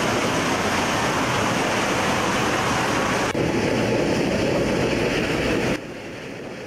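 Nilgiri Mountain Railway train running: a steady, loud rushing rumble of the moving train. It changes at a cut about three seconds in and drops to a quieter hiss near the end.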